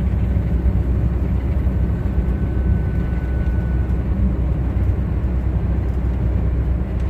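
Steady low rumble of a semi-truck's diesel engine and running gear heard from inside the cab, with a faint thin whine for a couple of seconds in the middle.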